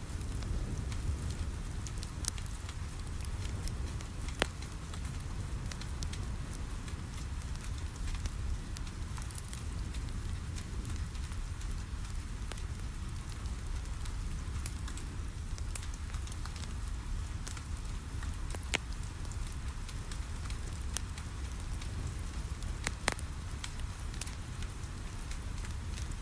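Wood fire crackling in a fireplace, with sharp pops every few seconds, over steady rain pattering on a window and a low rumble underneath.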